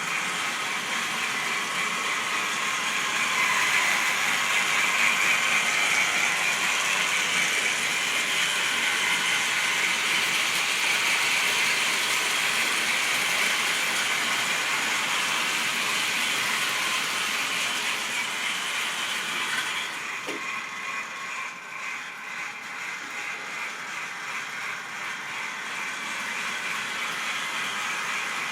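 Model train running on the layout: a steady mechanical whir and rattle of the locomotive's motor, gears and wheels on the track. It is louder in the first part and drops away noticeably about twenty seconds in.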